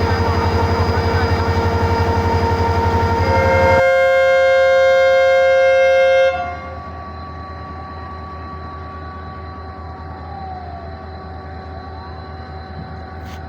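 Train horn blowing a long, loud chord over the throb of a diesel locomotive's engine; about four seconds in the horn shifts to a higher chord, then cuts off suddenly. The quieter rumble of the train carries on, with faint squeals.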